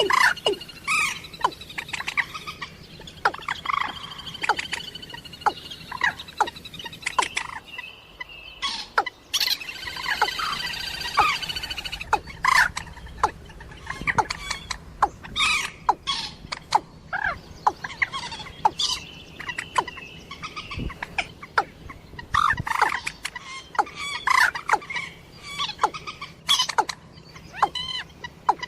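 Recorded calls of rails, common moorhen and watercock, used as a hunting lure: a rapid, irregular run of short sharp notes mixed with longer ringing calls.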